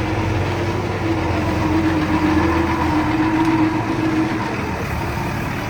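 Heavy earthmoving machine's engine running steadily, with a whine that swells a little partway through.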